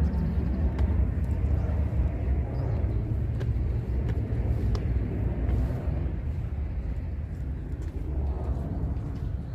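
Rainy outdoor ambience: a steady low rumble that eases slightly, with scattered light ticks of rain.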